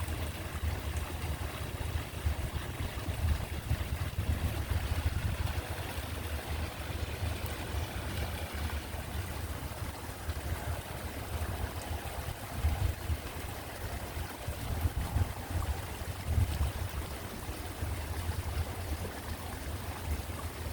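Wind buffeting the microphone: an uneven low rumble that swells and dips throughout, over a faint steady outdoor hiss.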